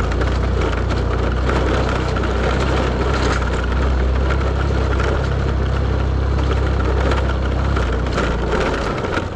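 A vehicle engine running steadily while driving over a rough dirt track, with a continuous crunching, crackling rattle of stones and gravel under the wheels. The engine hum drops away near the end.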